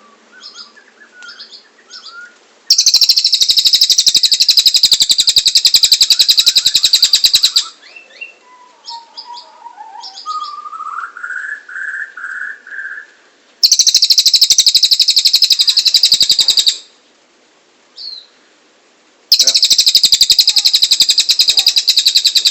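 Cililin songbird singing: three long, loud bursts of very rapid repeated high notes, each lasting several seconds, with soft chirps and a short lower warbled phrase in the gaps between them.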